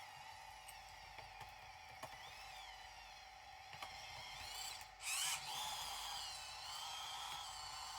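Small electric motors of RC construction models whining, their pitch wavering up and down over a steady hum, with a louder rising surge about five seconds in.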